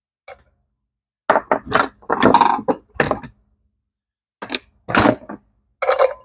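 Metal engine parts and hand tools knocking and scraping in short separate bursts: a cluster of clunks and scrapes in the first half and a few more near the end.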